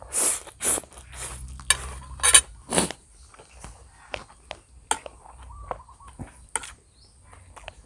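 Eating utensils clinking and scraping against a bowl of seasoned instant noodles as they are stirred and eaten: a quick run of clatters over the first three seconds, then scattered light clicks.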